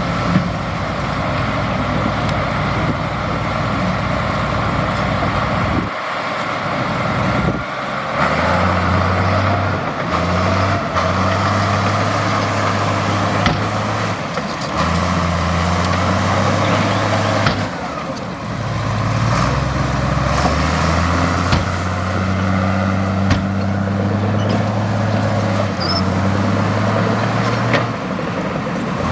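Heavy diesel earthmoving machinery running under load, its engine note shifting in pitch every few seconds.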